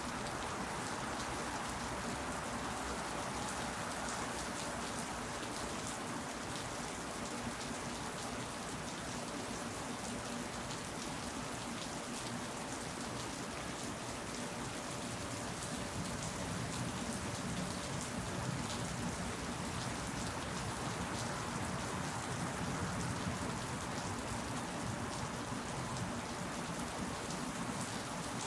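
Steady rain falling, a constant hiss of water with many separate drops hitting close by.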